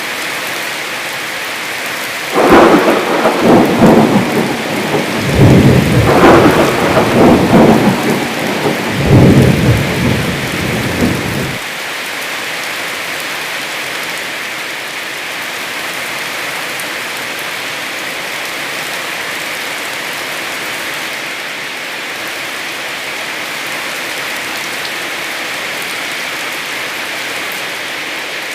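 Heavy rain falling steadily, with a loud rumble of thunder starting about two seconds in that comes in three surges and stops abruptly about nine seconds later.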